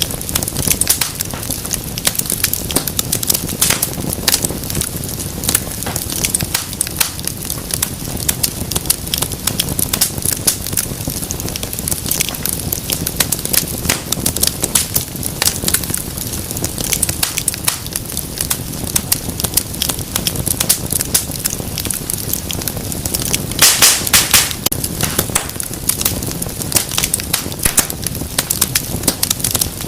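Wood fire crackling in a fireplace: a dense, continuous stream of sharp pops and snaps over a low rumble of burning, with a brief louder burst of pops a little before the end.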